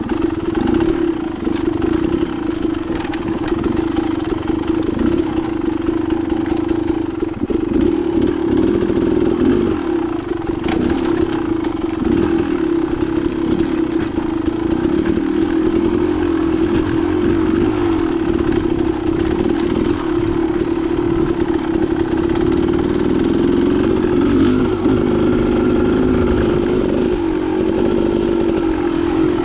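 Dirt bike engine running continuously at a fairly steady, moderate pitch, with small rises and dips as the throttle is worked.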